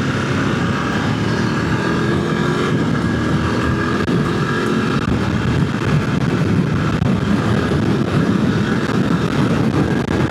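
Motorcycle engine running under acceleration at road speed, its pitch rising over the first few seconds, under heavy wind rush on the rider's microphone.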